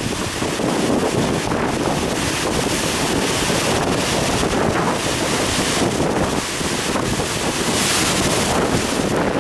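Typhoon wind buffeting the microphone over heavy swell and surf breaking at a harbour, a loud steady rush with a stronger surge about eight seconds in.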